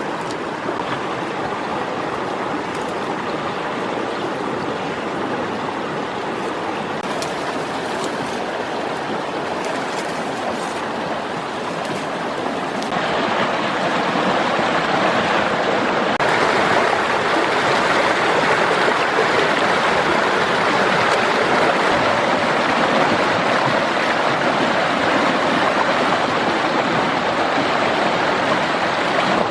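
Steady rushing noise like running water, growing louder about 13 seconds in.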